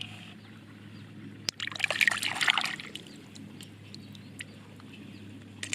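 Water splashing and trickling, loudest in a burst about two seconds in, over a steady low hum.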